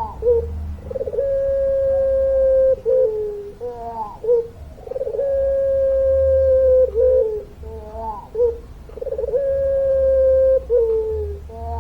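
Puter pelung dove, a Barbary dove strain kept for its long voice, cooing repeatedly: three long, steady held coos about every four seconds, each led in by short wavering notes.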